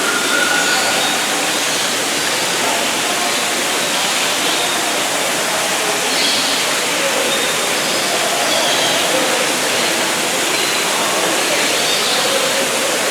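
Steady, loud rushing noise, like falling or running water, with faint distant voices and a few brief faint high tones.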